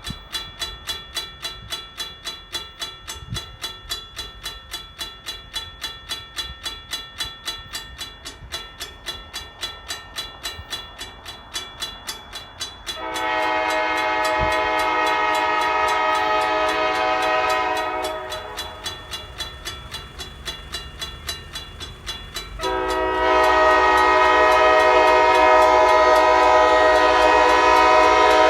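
A mechanical railroad crossing bell striking rapidly and steadily, a bell the filmer describes as having trouble ringing and dying. An approaching GP38-2 diesel locomotive sounds two long horn blasts over it, the second longer and louder, with the locomotive's low rumble under it.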